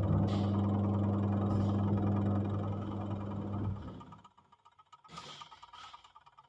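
Washing machine motor running with a steady hum for nearly four seconds, then stopping for a pause of about three seconds: the stop-start running of a wash cycle's agitation.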